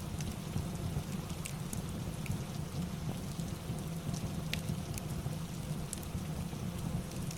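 Rain and fireplace ambience: steady rain over a low rumble, with scattered sharp crackles a few times a second.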